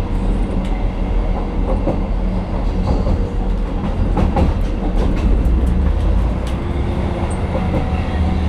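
Class 158 diesel multiple unit heard from inside the carriage while running: a steady low rumble of engine and wheels on the rails, with scattered clicks of the track.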